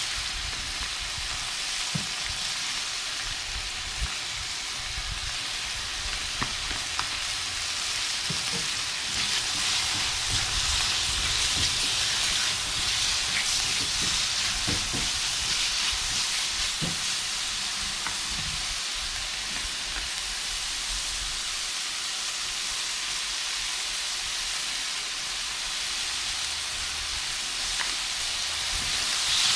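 Cubed chicken sizzling in a frying pan, with a steady hiss that swells a little midway, stirred now and then with a few light clicks of a utensil against the pan.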